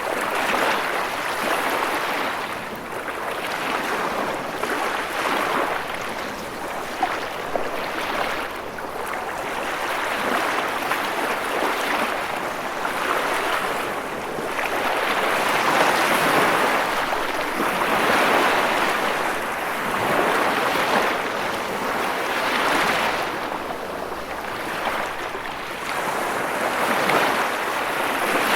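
Ocean waves breaking and washing, a continuous surge that swells and eases every few seconds.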